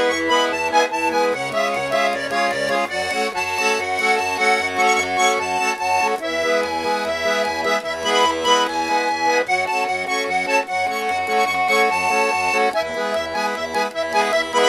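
Instrumental break of a song played on accordion: sustained chords over a steady bass-and-chord pulse of the left-hand buttons.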